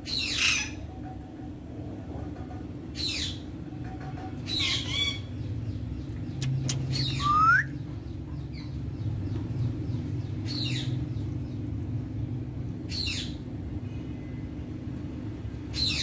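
Birds squawking in short, harsh calls every two to three seconds, one of them with a falling whistle in the middle, over a steady low hum.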